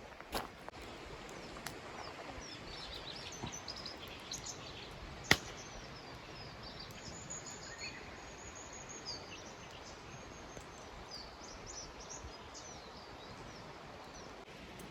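Small birds chirping and calling, many short quick notes, over a steady outdoor background hiss, with one sharp click about five seconds in.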